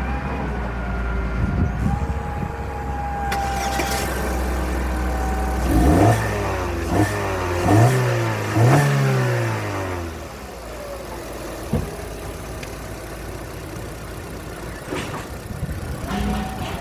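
2017 Holden Trax engine idling, then given several short revs in quick succession about six seconds in, each rising and falling in pitch. It then settles back to a steady, quieter idle.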